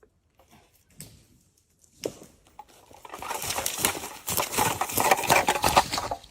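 A dense crackling and rustling that starts about two seconds in and grows loud, made of many small snaps.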